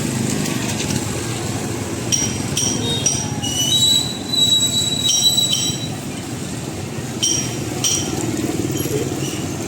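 A run of sharp, high-pitched metallic clinks, with one longer ringing squeal in the middle, over the steady hum of street traffic.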